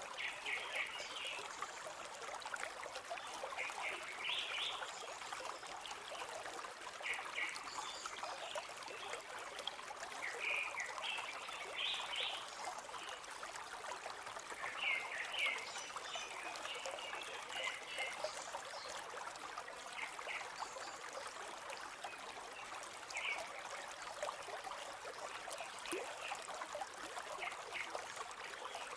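Shallow river or stream flowing and trickling steadily, with short high chirps from small birds breaking in every few seconds.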